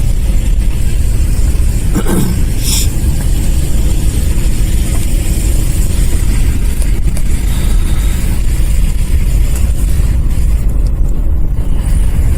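A car driving slowly on a snow-covered street, heard from inside: a steady low rumble of engine and tyres, with a brief higher sound about two seconds in.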